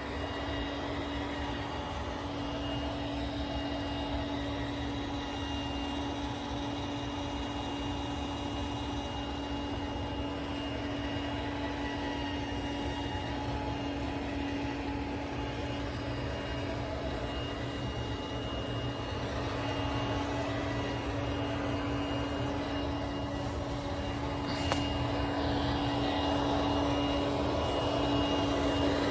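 Roomba Combo 10 Max robot vacuum running on carpet: a steady motor hum with a thin high whine, growing a little louder toward the end, with one sharp click about 25 seconds in.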